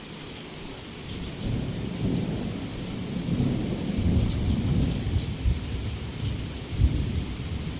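Heavy rain falling steadily, with a low rolling rumble of thunder that swells about a second and a half in and keeps rumbling.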